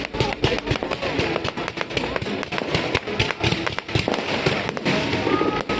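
Fireworks display, shells bursting in a rapid, irregular string of bangs, with music playing underneath.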